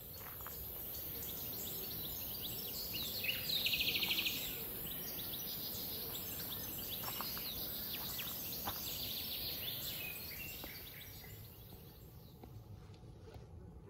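Small wild birds chirping and calling repeatedly, with a rapid buzzy trill about four seconds in, over a steady high-pitched hiss that stops near the end.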